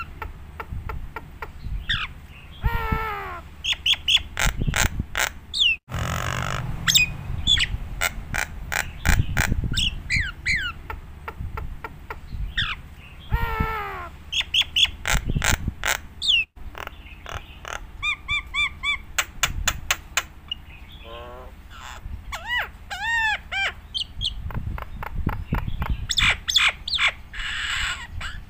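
Nias hill myna in full song: a rapid, varied run of loud whistles that slide up and down, sharp clicks and harsh calls. The song breaks off abruptly twice, about six seconds in and again near the middle.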